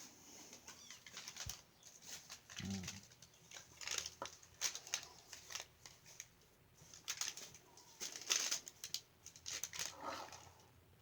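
Irregular rustling and scratching noises in quick, uneven bursts, with one brief low sound a little under three seconds in.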